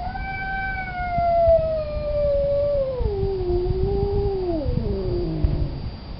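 Male cat in heat yowling for a female: one long drawn-out howl that slowly falls in pitch, lifts briefly about four seconds in, then drops away near the end.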